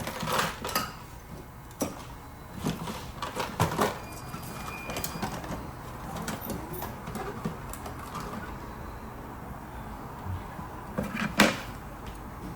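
Scattered clicks and knocks of hand work on an air conditioning unit's wiring, tools and parts being handled, with the loudest sharp knock about 11 seconds in.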